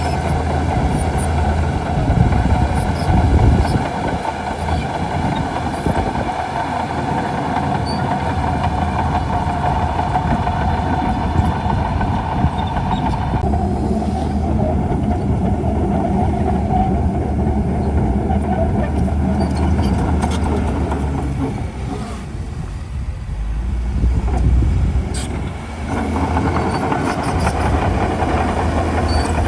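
Shantui DH17C2 bulldozer's diesel engine running steadily under load. Its sound changes about halfway through and dips briefly a few seconds before the end.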